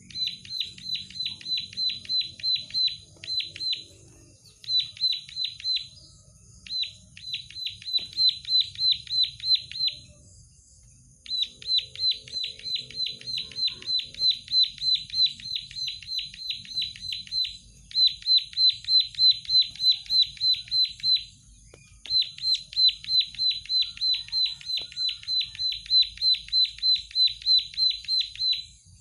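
Plain prinia (prenjak sawah) singing vigorously: long runs of rapid, identical high notes, about four to five a second, in bursts broken by short pauses.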